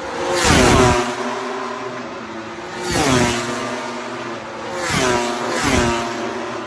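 MotoGP racing motorcycles flying past at full speed, four pass-bys, each a high engine note that drops sharply in pitch as it goes by; the last two come less than a second apart.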